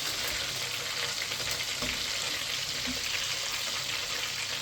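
Chicken pieces deep-frying in a pot of hot oil: a steady, dense sizzling crackle.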